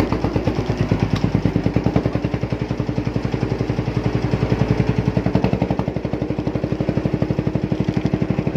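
Boat engine running steadily with an even, rapid thump, about eight or nine beats a second.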